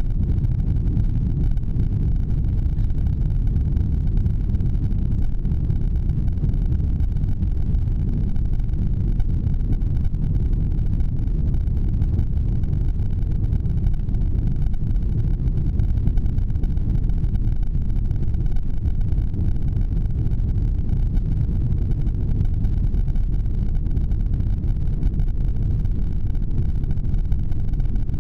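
Airbus A340 airliner heard from inside the passenger cabin: a steady, even low rumble of engines and airframe that neither rises nor falls.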